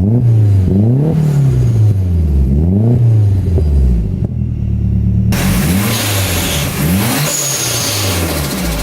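Nissan 240SX's turbocharged SR20DET inline-four revved in a string of quick throttle blips, each rising and dropping back to idle, through a cat-back exhaust. A steady hiss joins about five seconds in.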